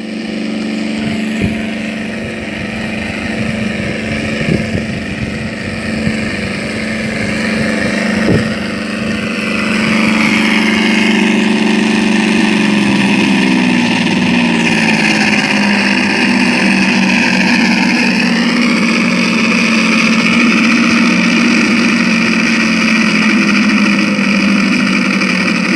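Simulated radial engine sound from a model T-28 Trojan's onboard engine-sound unit, played through its speaker: running at low speed, then opened up about ten seconds in and holding a louder, higher-pitched steady run.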